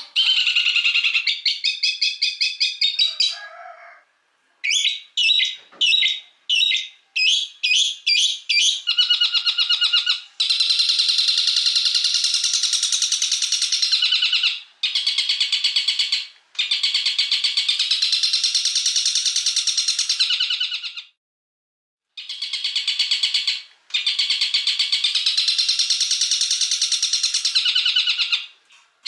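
Songbird singing fast, high trills in long bouts of several seconds, broken by short pauses, with a run of separate sharp notes between the first and second bouts.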